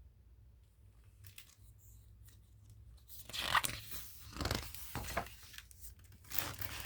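Paper rustling as the pages of a picture book are handled and turned: faint scratches at first, then louder rustles and swishes about halfway through.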